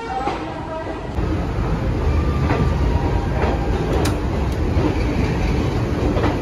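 Passenger express train pulling out of the station, heard from aboard: a steady low rumble of wheels and running gear that grows louder about a second in, with a few sharp clicks of wheels over the rails.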